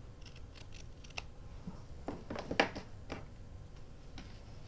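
Paper and craft tools being handled on a table: scattered small clicks and paper rustles at uneven intervals, the sharpest about two and a half seconds in.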